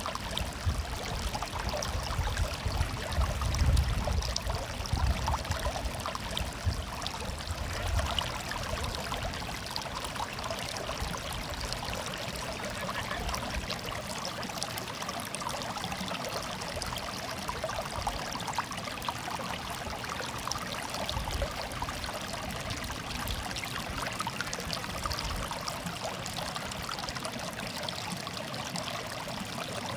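Running water murmuring steadily, like a small stream trickling over stones. There is a low rumble underneath for the first eight seconds or so.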